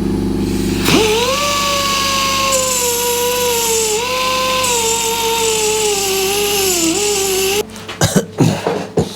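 A high-speed grinder spins up about a second in and works on an aluminium motorcycle cylinder head, a steady whine over a bright hiss that sags slightly in pitch as it bears on the metal. It stops suddenly about seven and a half seconds in, followed by a few knocks.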